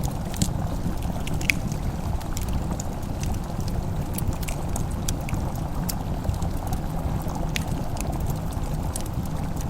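Wood fire in a fireplace crackling, with scattered sharp, irregular pops over a steady low rumble.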